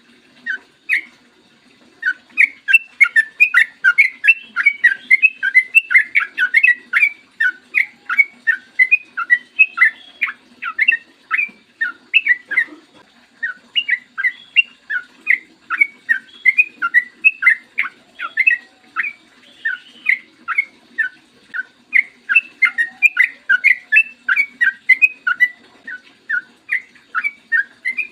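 Yellow-vented bulbul (trucukan) singing a long rapid run of short chirped notes, several a second, with brief breaks about a second in and around the middle.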